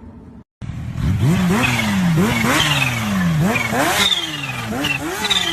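Kawasaki Ninja H2R's supercharged inline-four engine revved in a string of quick throttle blips. Each blip jumps up in pitch and then sags back, repeating about once a second after a brief cut near the start.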